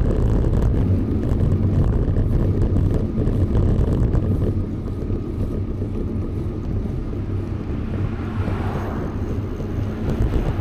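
Wind buffeting the microphone of a camera on a moving bicycle: a steady low rumble, with a little more hiss about eight seconds in.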